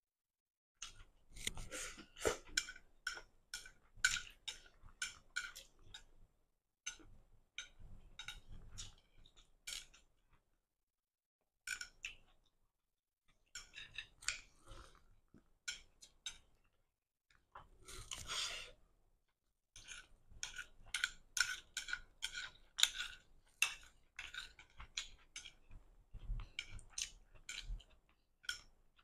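Close-miked chewing of stir-fried flat rice noodles: runs of quick wet smacking mouth clicks, broken by short pauses, with one longer rushing sound about two-thirds of the way through.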